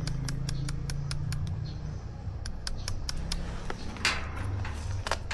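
BMW R 1300 GS Adventure's boxer-twin engine running steadily at low revs, with a rapid, uneven patter of sharp clicks over it and a rougher crunch about four seconds in.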